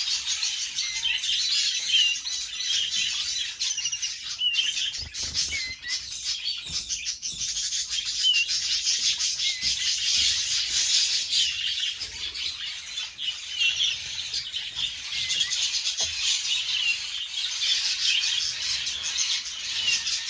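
Several domestic canaries chirping and twittering steadily, a dense run of quick overlapping high notes.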